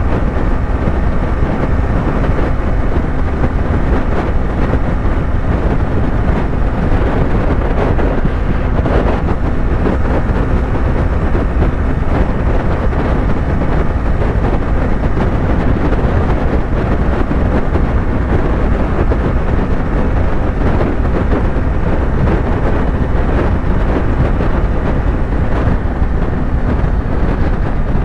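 Yamaha YZF-R3's parallel-twin engine running at a steady highway cruise, mixed with steady wind rush on the microphone.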